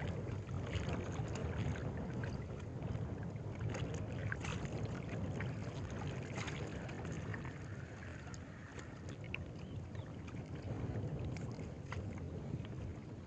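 Steady low rumble of wind on the microphone outdoors by the water, with scattered faint clicks.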